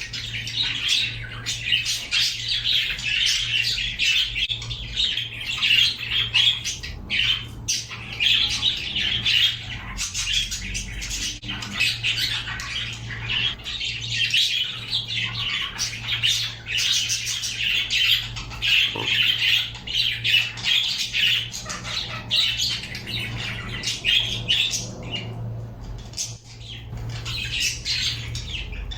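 Pet birds chattering and squawking without pause in many short, high-pitched calls, over a steady low hum.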